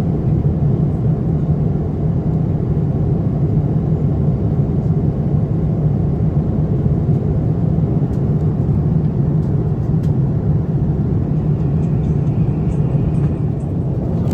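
Steady cabin noise of a Boeing 787-9 in cruise flight: an even, deep rushing drone of airflow and engines, with no change in level.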